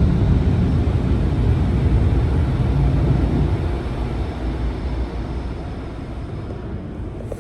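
Steady low rumble of a car moving through and out of the car wash tunnel, fading gradually over the last few seconds.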